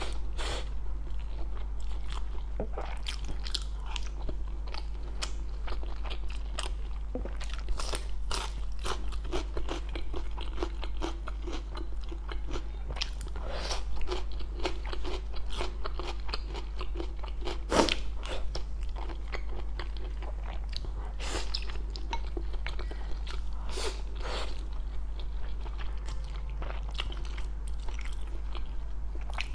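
Close-miked chewing and biting of a spicy stir-fry pot (mala xiang guo), with frequent crisp crunches from crunchy ingredients, irregular and continuous, over a steady low hum.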